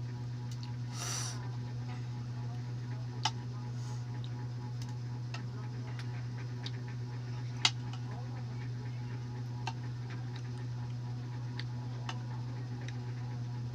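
Balut being eaten: scattered small clicks and cracks of eggshell and mouth, two of them sharper, with a short breathy noise about a second in, over a steady low hum.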